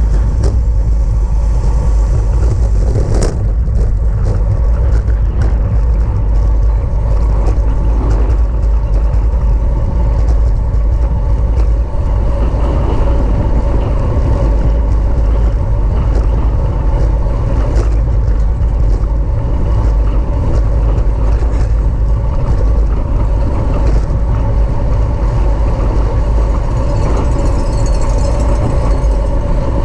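Wind rushing over the microphone of a camera riding on a racing bicycle at speed, a loud, steady low rumble, with the road noise of the bike running underneath.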